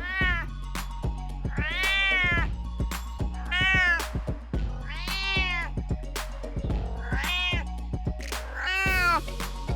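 A domestic cat meowing over and over, about six meows spaced a second and a half to two seconds apart, each rising then falling in pitch, over background music with a steady beat.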